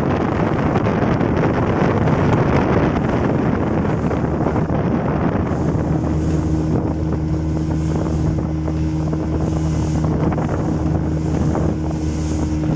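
Small boat's outboard motor running steadily under way, with water rushing past the hull and wind on the microphone. The rush of wind and water is heaviest in the first half, then the engine's hum stands out more clearly.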